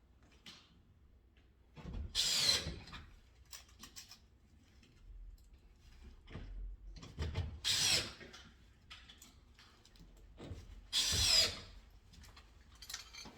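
Power drill running in three short bursts of about a second each, with faint handling clicks between.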